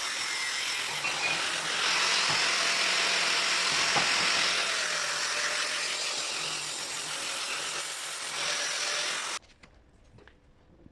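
Electric power tool running steadily against a steel railway rail while cleaning it, getting louder about two seconds in and cutting off suddenly near the end, followed by a few faint clinks.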